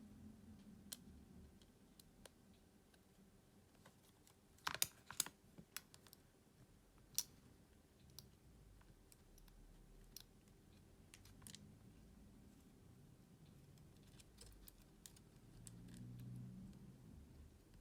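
Faint, scattered small clicks and taps of hand tools on a smartphone's parts during disassembly, with a quick cluster of clicks about five seconds in and one sharper click a couple of seconds later.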